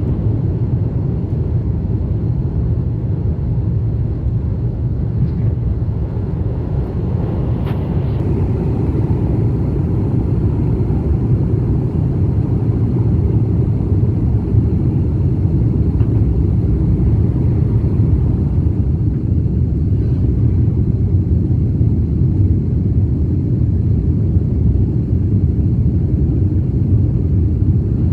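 Jet airliner taking off and climbing: a loud, steady, deep rumble of the engines and rushing air, with a faint thin high whine above it.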